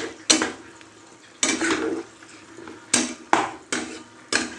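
A metal spoon knocking and scraping against a cooking pot while the soup is stirred, with several irregular clinks that ring briefly.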